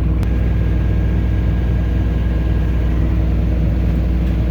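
Farm tractor engine running at a steady speed.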